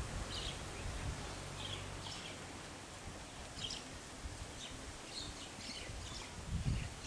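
Birds chirping in short, high calls scattered irregularly over a quiet outdoor background, with low rumbles of wind or handling on the microphone near the start and again near the end.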